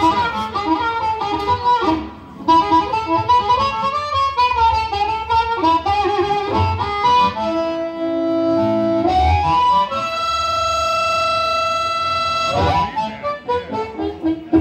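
A harmonica solo played live with a band, mixing quick runs of notes with long held chords, one lasting a couple of seconds near the middle, over guitar accompaniment.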